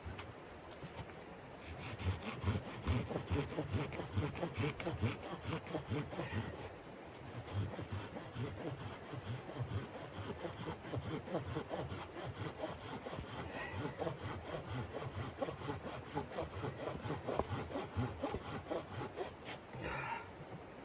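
Hand saw cutting through wood in quick, even back-and-forth strokes, starting about two seconds in and running on with a short break around the middle.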